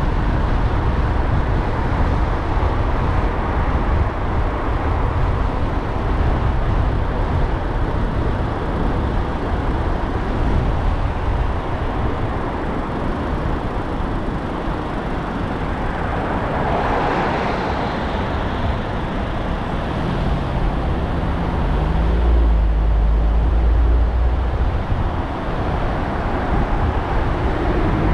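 Car driving through city traffic: steady road and engine rumble with surrounding traffic noise, a swell of noise as something passes about two-thirds of the way through, and a louder low hum for a few seconds after.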